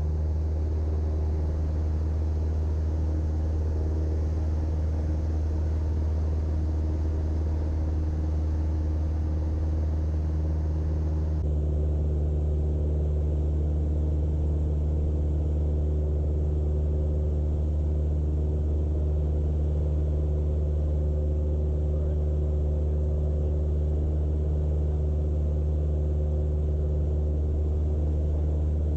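Cessna 172's four-cylinder piston engine and propeller droning steadily in cruise, heard inside the cockpit. About eleven seconds in, the faint hiss above the drone thins out.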